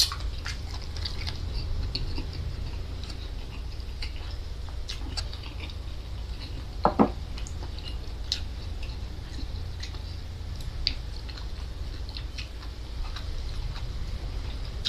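Close-up mouth sounds of someone eating salingongo seaweed: chewing with scattered small wet clicks and smacks, over a steady low hum. About seven seconds in comes a brief voiced hum from the eater, the loudest sound.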